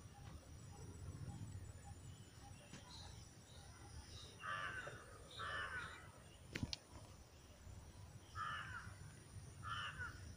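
A bird giving four harsh calls in two pairs, each pair about a second apart, with a single sharp click between the pairs.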